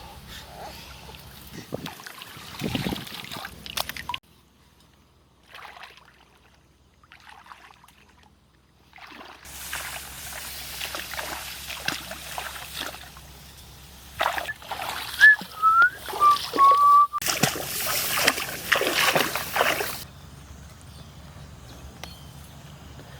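Water splashing and sloshing, heard in several separate stretches with sudden cuts between them. A brief rising tone that then levels off sounds about two-thirds of the way through.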